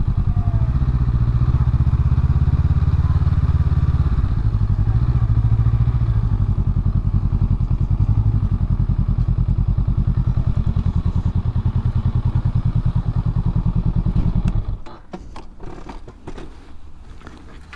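Honda Rebel 500's parallel-twin engine running through its stock muffler, a low, muted, steady pulsing exhaust note. About fifteen seconds in the engine sound drops away abruptly, leaving a few faint clicks and knocks.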